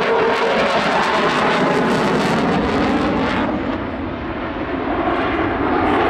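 Eurofighter Typhoon jet engine roar from a display pass. The pitch drops as it goes by, the sound eases about four seconds in, then builds again near the end.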